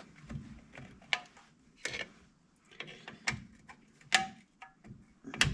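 Irregular metallic clicks, taps and clinks of hand tools working on old drum-brake hardware as the brake shoes are taken off. One clink about four seconds in rings briefly.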